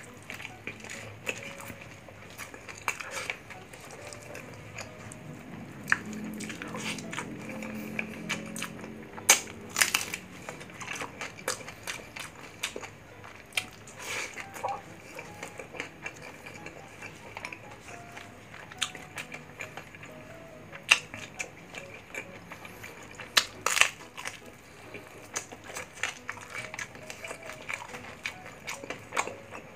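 Close-miked chewing of crispy fried pork belly (bagnet) and rice, with irregular sharp, crackly crunches as the crisp skin breaks between the teeth.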